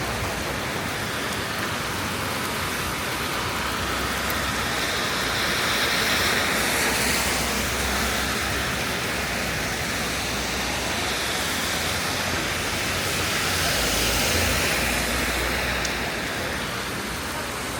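Steady hiss of rain falling on the street. Twice it swells louder with a low rumble, about six and fourteen seconds in: vehicles driving past on the wet road, tyres hissing.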